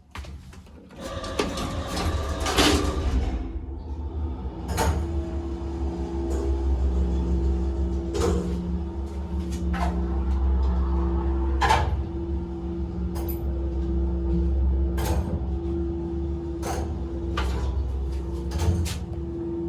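Lift machinery of a 1986 MLZ passenger lift running: a short clatter about a second in, then the 4AH-160 motor's steady loud hum, with a sharp click about every second and a half to two seconds.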